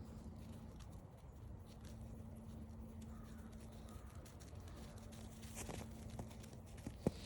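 Faint footsteps along a forest trail, with a few sharper crunching steps near the end. A faint steady low hum runs underneath.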